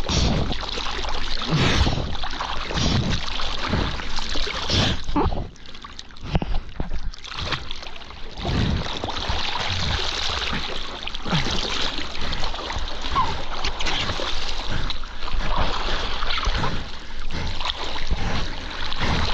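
Wind buffeting the microphone and water rushing and splashing, in uneven gusts with a heavy low rumble.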